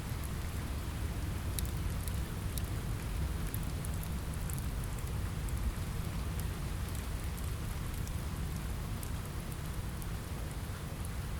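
Steady rain, a constant hiss over a deep low rumble, with sparse sharp crackles from a wood fire scattered through it.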